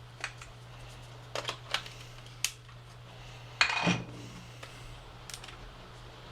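Handling noise from a Canon RF 28mm lens being fitted to a Canon EOS R5 Mark II body: a few small, sharp clicks, then a louder, longer handling sound under half a second long a little past halfway.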